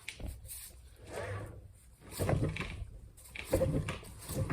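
Scraping and clicking of a small quad engine's internals being turned over by hand, the piston moving in the cylinder, with sliding sounds about two, two and a half and three and a half seconds in.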